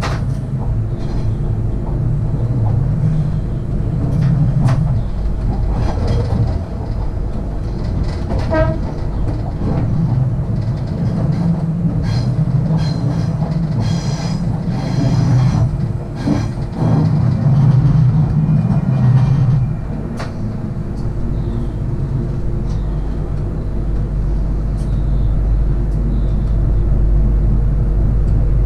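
A Millennium-series electric multiple unit running along the track, heard from inside the driver's cab. A steady rumble comes with repeated clicks of the wheels over the track. About two-thirds of the way in, the rumble turns deeper.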